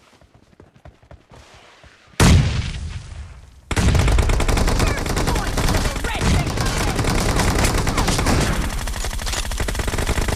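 Shooter video game audio: a sudden loud blast about two seconds in, then dense rapid automatic gunfire from about four seconds in.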